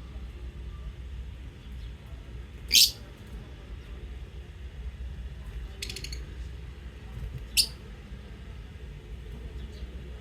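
Lovebirds calling: two loud, short, shrill chirps, about three and seven and a half seconds in, with a brief rapid buzzy trill between them.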